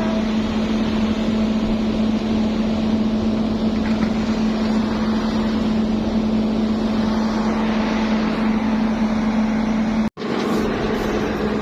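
Heavy diesel engines of a bulldozer and an excavator working, a steady engine drone with a strong constant hum. The sound cuts out for an instant about ten seconds in, then carries on.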